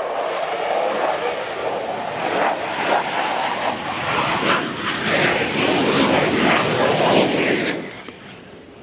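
Fixed-wing aircraft passing close by: a loud, steady roar of its engines that drops away sharply about eight seconds in.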